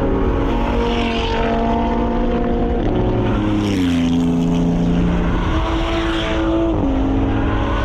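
Sports car engine running hard, its pitch holding steady and then dropping in steps several times as gears change, with road and wind noise underneath.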